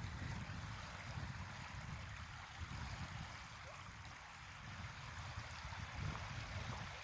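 Faint wash of salt water along a shoreline, with a low, uneven rumble underneath.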